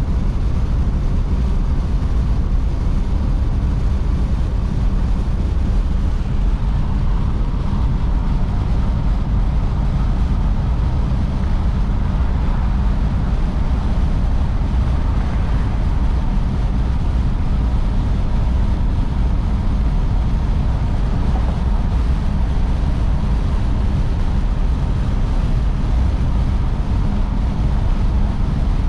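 1953 Oldsmobile Super 88 on the road: a steady low rumble of engine and road noise while cruising, with no change in pace.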